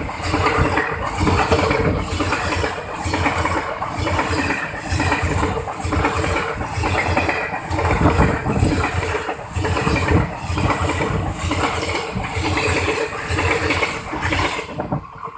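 Train running, a loud continuous rumble with a regular clatter about every three-quarters of a second, which cuts off suddenly near the end.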